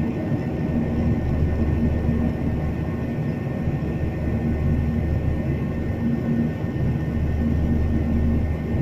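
Airliner cabin noise in flight: the steady low rumble of the jet engines and rushing air, with a steady hum running through it.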